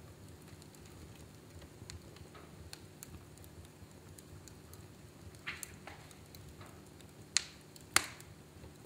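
Fire in a fireplace crackling: scattered small pops and ticks over a low steady rumble, with two sharp, loud pops near the end.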